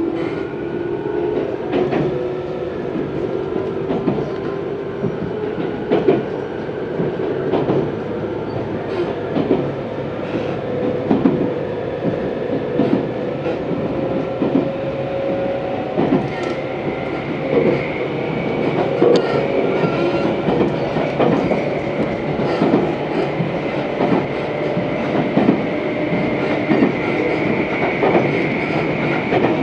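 Running noise of a Tobu 634-series electric train heard from inside the car: the wheels clack over rail joints in a steady rhythm under a continuous motor and gear whine. The whine slowly rises in pitch, and a higher whine joins about halfway through.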